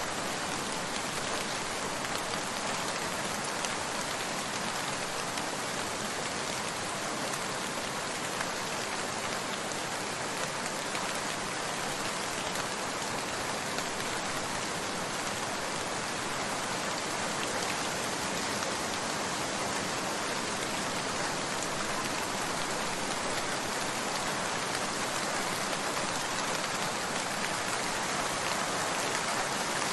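Steady rain falling, an even hiss of many drops with no single drop standing out.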